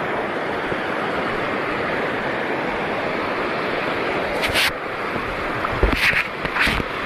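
Steady wash of shallow sea water and surf with wind on the microphone, broken by three short splashes in the last few seconds.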